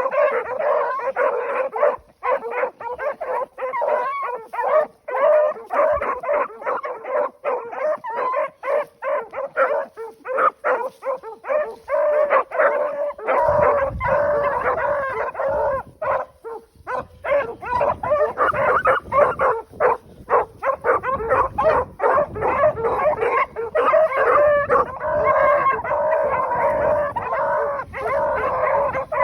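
Several hounds baying and barking together while running a track, their voices overlapping without a break.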